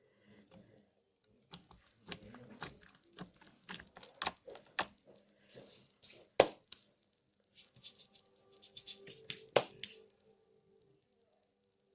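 Slime being squeezed and worked by hand, giving irregular sharp clicks and pops, some in quick clusters, with two louder pops.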